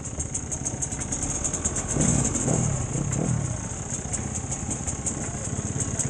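Enduro dirt-bike engine idling at a standstill, with a short louder stretch that rises and falls in pitch about two seconds in.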